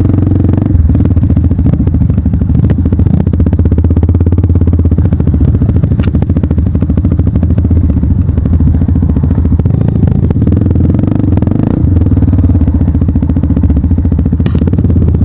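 Trail motorcycle engine running loudly and steadily while under way, with a few sharp knocks over rough ground.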